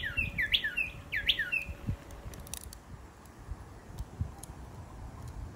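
A bird calling a quick run of about six sharp notes, each sweeping down in pitch, over the first two seconds, then falling silent. A few soft low thumps follow.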